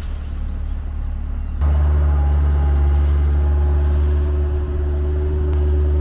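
A motor vehicle's engine running steadily as a low drone. About a second and a half in, the sound changes abruptly from a hissy hum to a louder, steadier drone.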